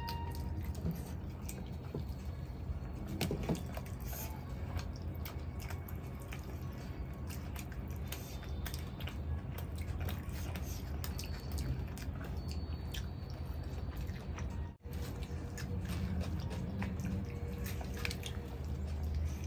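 Close-miked eating: wet chewing and lip-smacking of naan dipped in creamy gravy, eaten by hand, heard as a stream of small wet clicks over a steady low hum.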